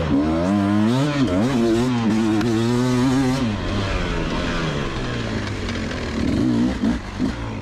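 Beta enduro motorcycle's engine revving up and down as the bike pulls away, its pitch rising and falling with the throttle, heard from a GoPro on the bike itself. After about three and a half seconds the note turns rougher and less steady on slower going.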